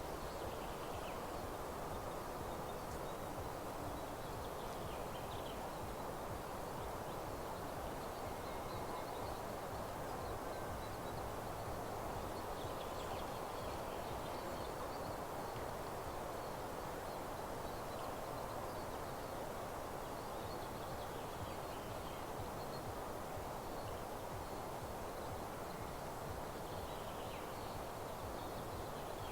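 Faint songbirds chirping and trilling now and then over a steady, even outdoor hush in a mountain meadow.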